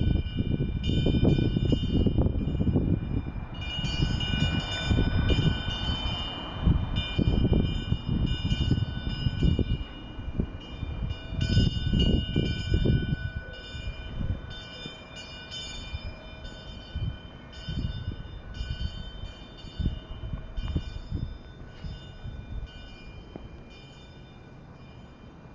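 Wind buffeting the microphone in gusts that ease off over the last several seconds, with a thin, steady high ringing above it.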